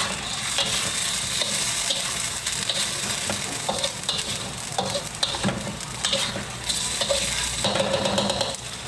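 Beef liver and spleen frying in oil in a wok, a steady sizzle, while a metal slotted spatula stirs them, scraping and clicking against the pan at irregular moments.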